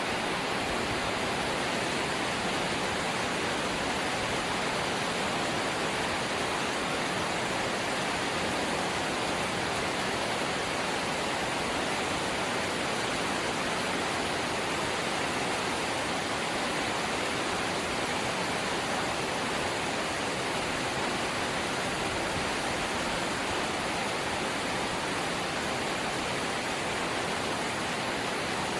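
Steady light rain, an even, unbroken hiss.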